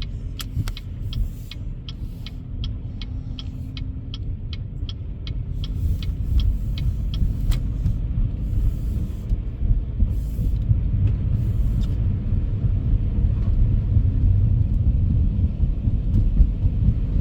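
Inside a car: the turn-signal indicator clicks about three times a second, then stops about seven seconds in. Under it the engine and tyres rumble low and steadily, growing louder as the car pulls away from the light and gathers speed.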